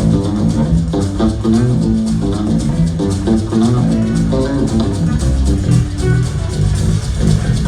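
Live electric blues-rock band playing: electric guitar running quick lines over bass guitar and a steady drum kit, as heard from the audience.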